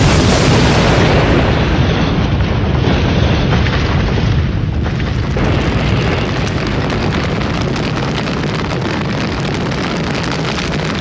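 Explosion sound effect: a sudden loud blast, then a long, heavy rumble that carries on with little fading.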